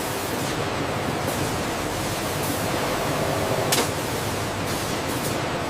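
Steady factory machinery noise, an even hiss, with a brief sharp hit a little past halfway through.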